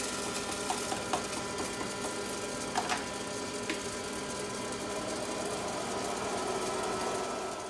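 Electric popcorn popper running with a steady motor hum while it preheats, with a few light clicks.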